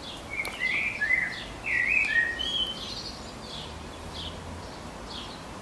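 A songbird singing: a quick run of varied rising and falling notes for about the first three seconds, then fainter scattered chirps.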